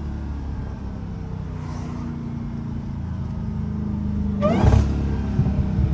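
Straight-piped Dodge Challenger Hellcat's supercharged 6.2-litre Hemi V8 exhaust running under way, getting gradually louder, with a brief louder burst about four and a half seconds in.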